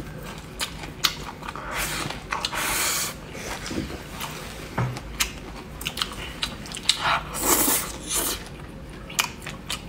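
Close-up chewing of a mouthful of rice with stir-fried green pepper and shredded pork: wet mouth sounds with many small, sharp clicks and crunches.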